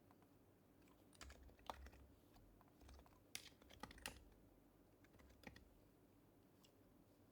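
Typing on a Happy Hacking Keyboard Professional HYBRID Type-S with its silenced Topre switches: an irregular run of a dozen or so faint keystrokes from about a second in to about five and a half seconds, then a pause.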